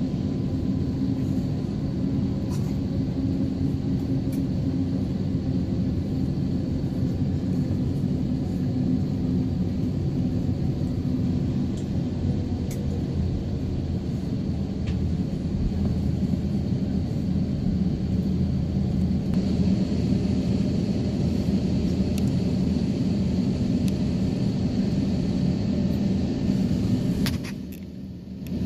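Steady low rumble inside the cabin of an Airbus A350-900 on the ground after landing, with a few faint clicks; it drops briefly near the end and comes back.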